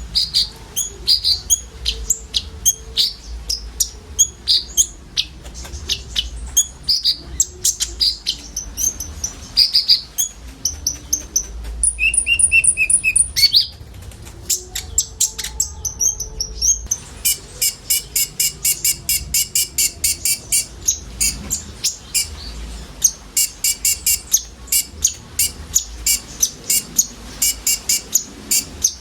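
Several sunbirds (konin) singing and calling in quick high chirps and twitters. A buzzy trill comes about twelve seconds in, then a fast run of evenly repeated sharp chirps.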